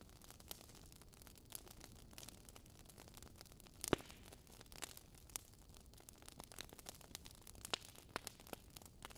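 Campfire crackling: wood snapping in irregular small pops and clicks over a soft hiss, with one louder pop about four seconds in.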